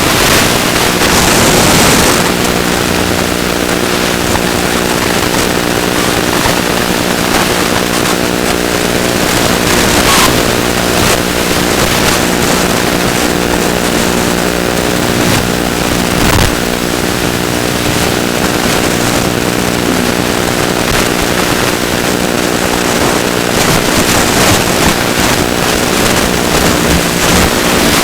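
ZOHD Drift model plane's electric motor and propeller running at a steady speed, with heavy wind rush over it.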